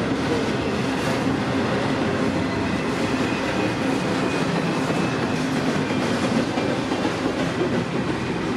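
Freight cars of a long CPKC mixed freight rolling past on jointed track, a steady rumble with clickety-clack of the wheels, the train coasting and slowing down rather than under power. A faint high wheel squeal comes in around the middle.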